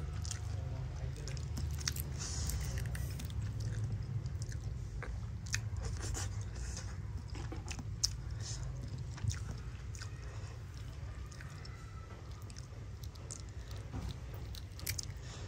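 Close-up chewing and biting of a boiled fertilized duck egg (balut): soft, wet mouth clicks and small crunches scattered irregularly, over a steady low hum.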